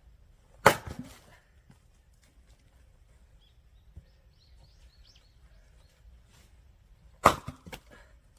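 Axe splitting firewood: two sharp strikes about six and a half seconds apart, each followed by a short clatter of split pieces falling.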